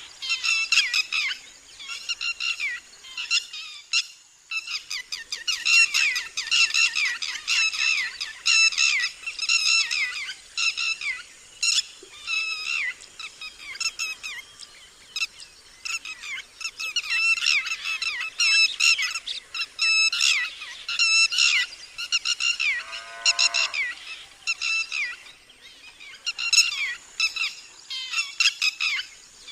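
Red-wattled lapwing giving its loud alarm call: rapid runs of sharp, shrill notes, each dropping slightly in pitch, repeated in bursts with short pauses. About 23 seconds in, a lower, fuller call sounds briefly among them.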